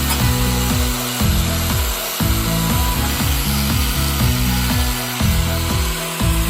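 Steady abrasive scraping from a tool working the metal of a pail can, over background music with a stepping bass line.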